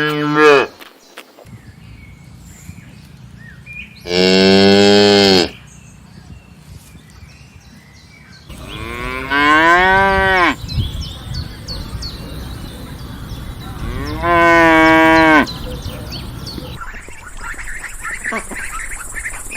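Domestic cow mooing: three long moos a few seconds apart, plus the tail of one just at the start, with steady background noise between calls.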